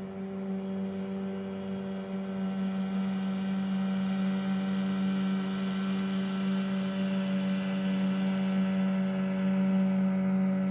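A moped's small engine running at steady revs, giving an even humming tone that grows gradually louder.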